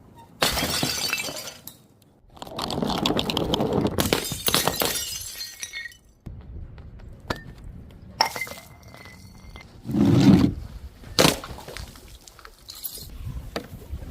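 Glass bottles smashing one after another, with shards clattering and tinkling. One smash runs on for several seconds. Later come a short ringing clink, a heavy thud about ten seconds in, and one more sharp crack.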